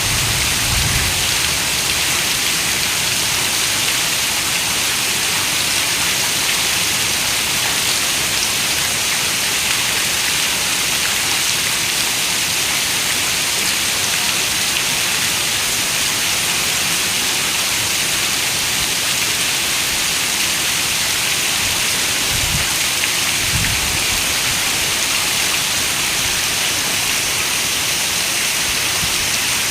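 Steady rain falling, an even hiss, with a couple of brief low rumbles about three-quarters of the way through.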